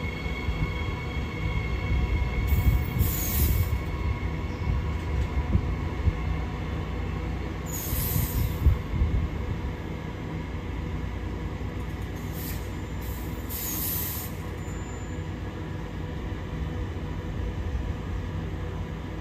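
Electric passenger train running at the station with a steady low rumble and a few steady motor tones. Three short high-pitched bursts come about 2.5, 8 and 13 seconds in, typical of wheel squeal on the rails.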